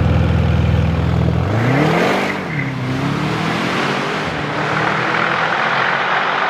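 Audi RS6's tuned 4.0-litre twin-turbo V8 accelerating hard: it holds a steady low note at first, then the revs climb, drop back at a gear change about two seconds in, and climb steadily again.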